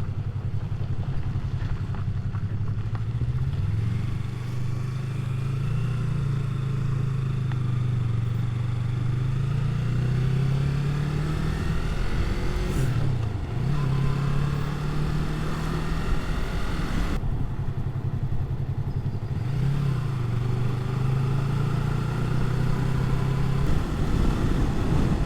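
Motorcycle engine running under way, its note holding and rising with the throttle, then dipping and picking up again twice, over steady wind and road rush.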